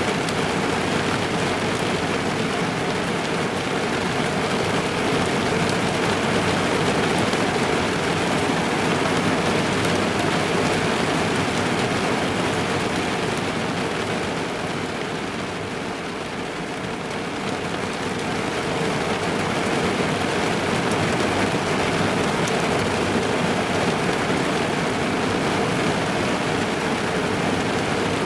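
Steady rain pattering on a car's roof and windscreen, heard from inside the car. It eases a little about halfway through, then picks up again.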